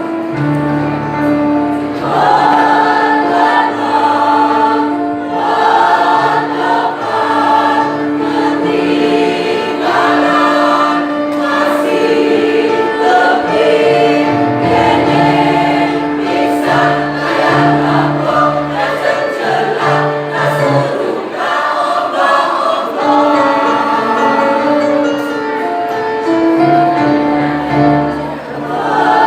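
A choir singing in harmony, sustained phrases carried on steadily.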